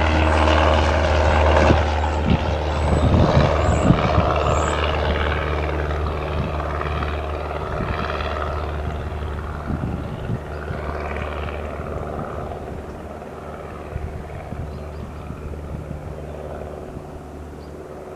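A Cessna 172 Skyhawk's single four-cylinder piston engine and propeller running at a steady drone, fading steadily as the plane moves away.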